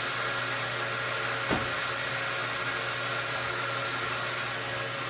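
Lathe running steadily during a facing cut on a piston, a constant motor hum with several fixed whining tones. One short knock comes about a second and a half in.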